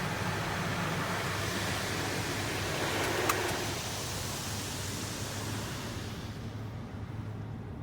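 Belanger FreeStyler automatic car wash working on the car: a steady rushing hiss that fades away about six seconds in, over a steady low hum. There is one short click about three seconds in.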